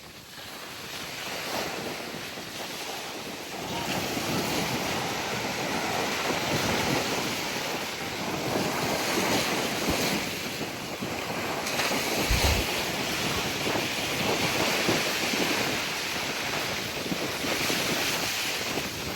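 Surf washing onto a beach, with strong wind buffeting the microphone; a brief low bump of wind on the microphone about twelve seconds in.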